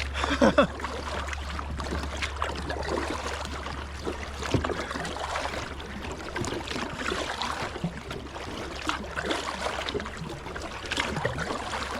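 Kayak paddle strokes splashing, with river water running and gurgling around the hull in a strong current.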